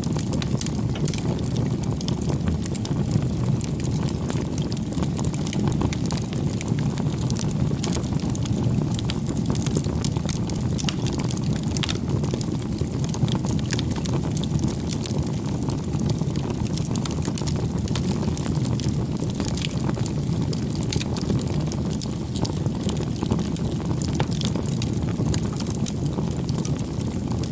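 Wood campfire burning: a steady low rumble of flames with frequent small crackles and pops scattered throughout.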